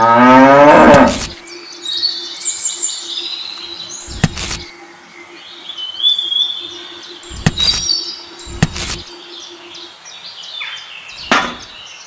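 A cow mooing, its long call rising in pitch and ending about a second in, then birds chirping on and off. A faint steady hum runs under the birds, and a few short knocks fall through the rest.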